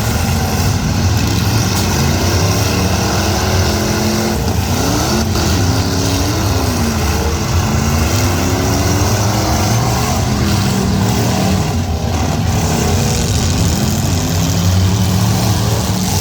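Several V8 derby cars' engines running together, revving, their pitch rising and falling repeatedly.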